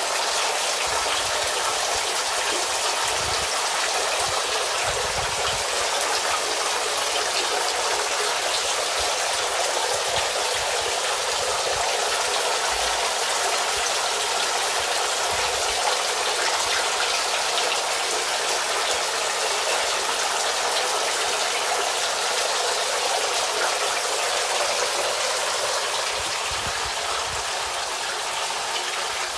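Filtered water from a homemade pond filter splashing steadily back into a fish pond, churning up bubbles that aerate the water.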